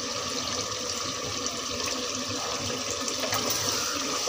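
Steady sizzling and bubbling of a potato and spring-onion curry cooking in oil in an open pressure cooker while it is stirred with a spatula.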